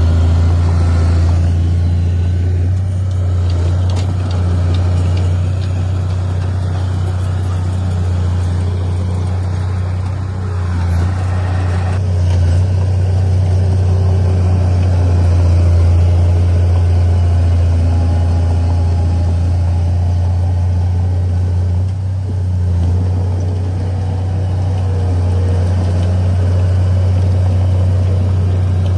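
Heavy diesel engine of earthmoving machinery running steadily with a deep, even drone, easing off briefly twice.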